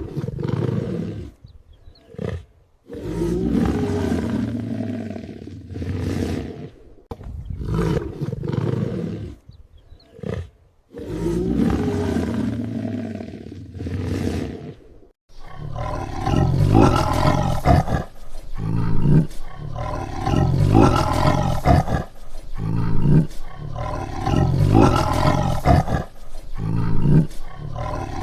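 Animal calls: loud, separate drawn-out cries with short pauses between them, then from about halfway a denser run of pulsing calls with hardly a break.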